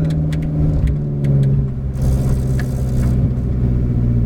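Ferrari F430 GT race car's V8 engine running at low, steady revs, its pitch stepping down a little about a second in and again near the end as the car slows. A short hiss about two seconds in.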